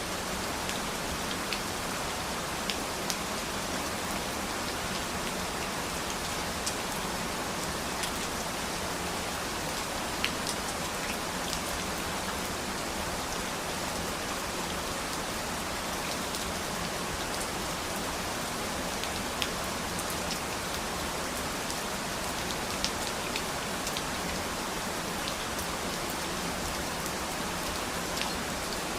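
Steady rain falling, an even hiss with scattered individual drops ticking sharply on a surface now and then.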